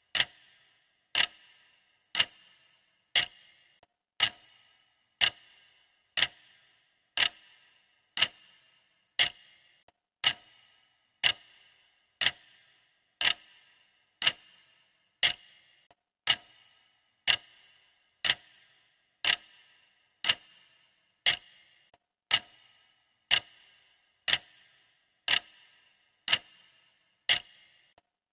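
Clock ticking steadily, one sharp tick a second, each with a short metallic ring: the ticking of a countdown timer.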